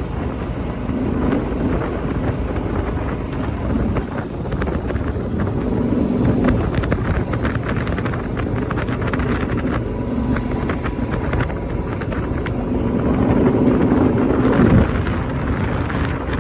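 Motorcycle engine running on the move, its note wavering with the throttle and rising near the end, under heavy wind noise buffeting the microphone.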